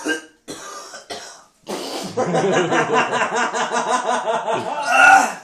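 A man coughing, then heaving and gagging in a long run of rapid, voiced retches, his mouth burning from a mouthful of swallowed bird's eye chillies.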